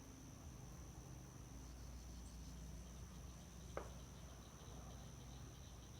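Crickets chirring in a steady, faint high-pitched drone, with a single soft click about four seconds in.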